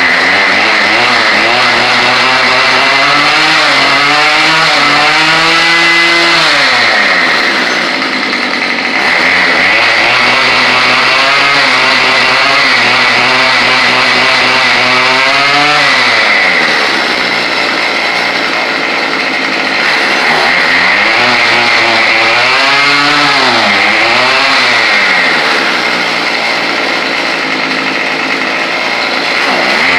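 Small gasoline string-trimmer (weed eater) engine running, revved up and let back down several times, its pitch dropping toward idle about every six to eight seconds. The trimmer has just started after refusing to start earlier.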